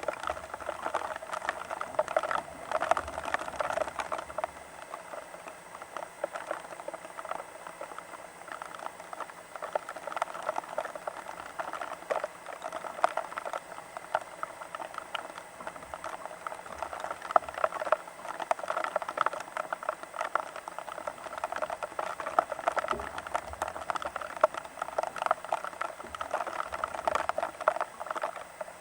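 Rain pattering: a dense, continuous spatter of drops that swells and eases in loudness.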